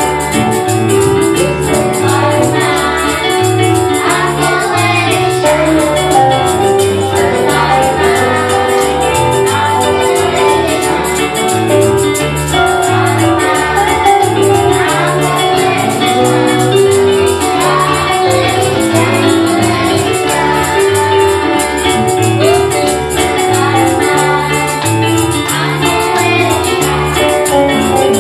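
Live gospel music with singing and a steady beat, a tambourine shaking along.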